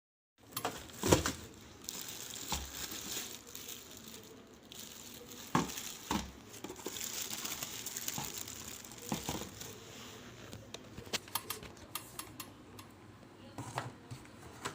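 Plastic packaging crinkling and rustling while parts are handled, with scattered sharp clicks and knocks throughout.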